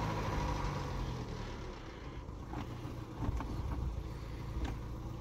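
Car engine idling steadily, with a few faint clicks in the second half.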